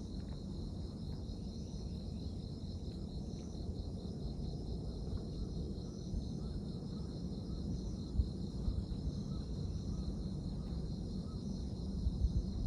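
Insects chirring steadily in a high, pulsing trill, with a low, uneven rumble underneath.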